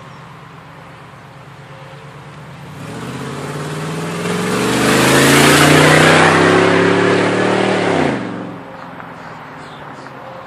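2003 Ford F-150's 5.4-litre V8 with no muffler, exhaust dumped behind the cab, driving past under acceleration: its note swells and climbs in pitch, is loudest a few seconds in, then drops away sharply about eight seconds in.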